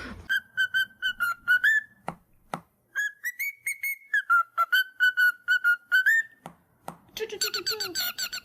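A whistled tune of short, rapidly repeated notes on much the same pitch, each phrase ending with an upward slide. There are two runs split by a brief pause with a couple of clicks, then a busier stretch of mixed whistles and chirps near the end.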